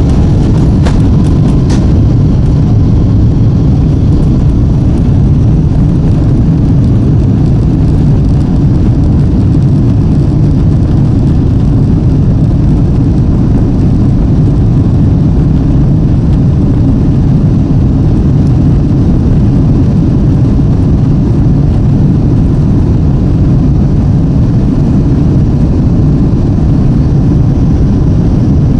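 Rolls-Royce Trent 892 turbofans of a Boeing 777-200ER at takeoff power during the takeoff roll, heard loud and steady from inside the cabin as a deep rumble. A spool-up whine levels off into a steady tone about a second in.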